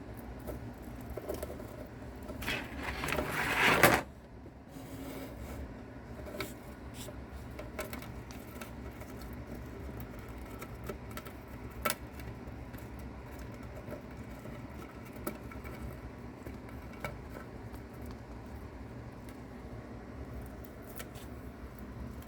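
A cicada's distress buzz as a mouse attacks it: a rough buzz that builds for about a second and a half and cuts off abruptly, followed by scattered faint clicks and scratches over a steady low hum.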